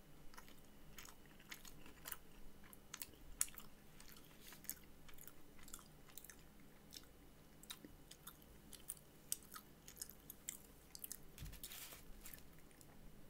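Faint, close chewing of a mouthful of fried chicken sandwich: irregular small wet clicks and crunches of the mouth and food.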